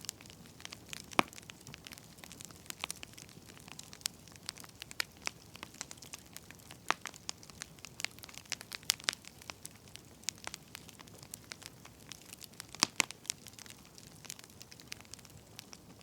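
Burning firewood crackling: irregular sharp pops and snaps over a soft hiss, with a louder pop about a second in and two more close together near the end.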